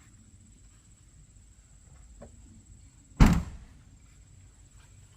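A car door being shut: one heavy thunk about three seconds in that dies away within half a second.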